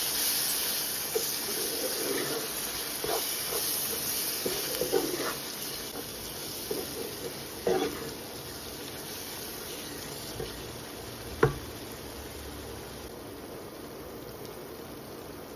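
Onion, tomato and spice masala sizzling in a pan while a wooden spoon stirs and scrapes through it, with one sharp knock a little after the middle. The sizzle slowly dies down as the masala cooks.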